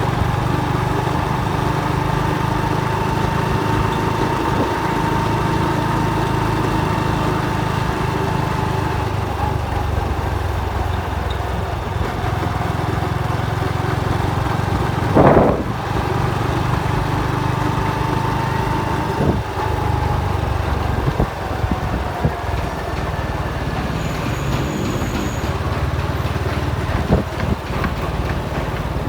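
Motorcycle engine running while riding, its note drifting gently up and down with speed over a steady low rumble. A brief loud blip cuts in about halfway through.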